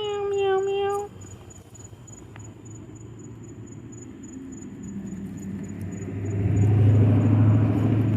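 A cat gives one meow lasting about a second, falling slightly in pitch. Then a low rumble builds from about five seconds in and is loudest near the end. Under both runs a faint high ticking, about four a second.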